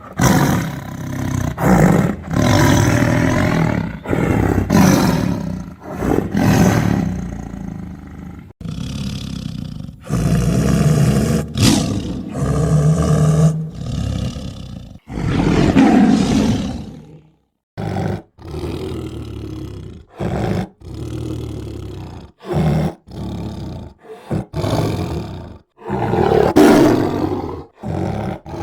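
Tiger roaring and growling repeatedly: a run of loud, long roars at first, then a string of short, sharply cut roars and snarls in the second half.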